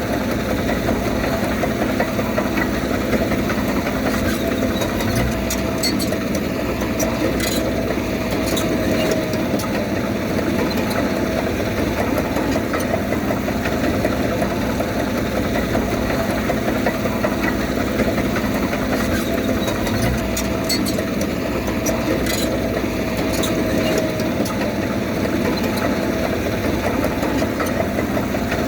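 Heavy earthmoving machine's diesel engine running steadily under work, its pitch sagging slightly twice about fourteen seconds apart, with a few sharp clanks.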